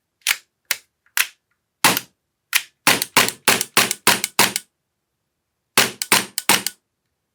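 Action Army AAP-01 gas blowback airsoft pistol firing a test string: five spaced single shots, then a quick run of about eight shots, and after a pause a second run of about five. The pistol is cycling and shooting again while a fault is traced with a stock upper fitted.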